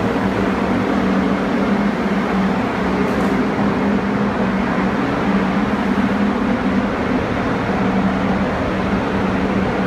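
A steady mechanical hum, level and unbroken throughout.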